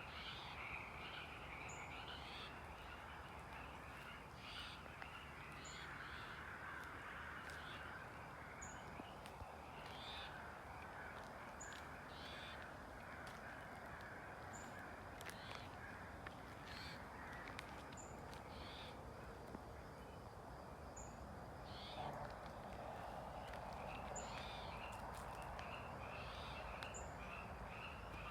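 Barn owl calls: short, hoarse hissing screeches repeated every second or two, over a steady trilling chorus in the background and a brief high peep about every three seconds.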